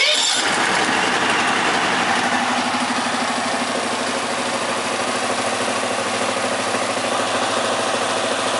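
Petro Viking truck-mount carpet cleaning unit's Subaru engine catching at the very start and settling into a steady run.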